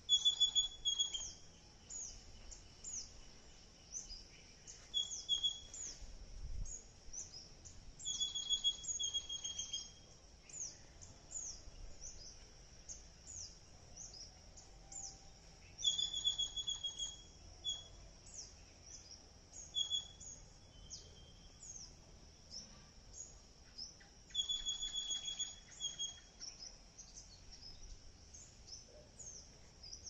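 Outdoor birdsong: a songbird repeats a short phrase about every eight seconds, a clear high note with a fast trill on top. Many short high chirps that fall in pitch run between the phrases, over a steady high hiss.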